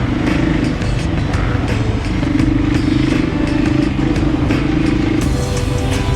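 Dirt bike engine running and revving, with background music that has a steady beat.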